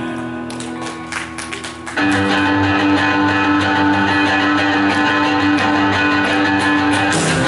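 Live worship band music: a few quieter guitar strums, then about two seconds in the full band comes in louder with held chords.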